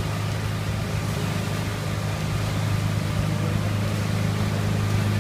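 Motorboat engine running steadily under way, a constant low hum with a steady rush of noise over it.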